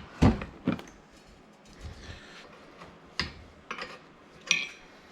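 Metal knocks and clanks of a truck driveshaft and its carrier bearing being handled at a bench vise: two sharp knocks near the start, the first the loudest, a few more past the middle, and a last clank near the end that rings briefly.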